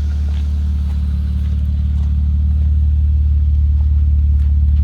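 BMW E36 328i's straight-six idling through a MagnaFlow muffler: a deep, steady exhaust hum that slowly gets a little louder. The engine is still warming up after a cold start.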